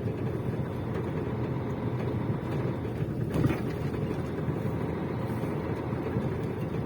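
Steady engine and road rumble heard from inside a moving vehicle's cab, with a single brief knock about three and a half seconds in.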